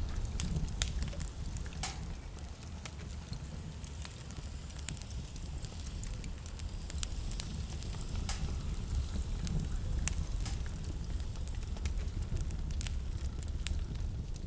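Fire crackling in a fireplace: irregular sharp pops and snaps over a steady low rumble of the burning.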